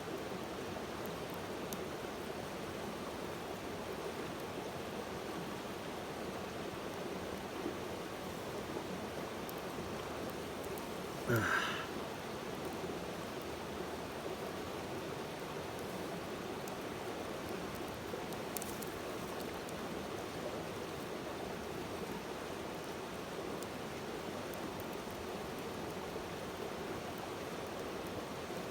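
Steady rushing noise with no rhythm, of the kind made by flowing water, with one brief louder sound with a falling pitch about eleven seconds in.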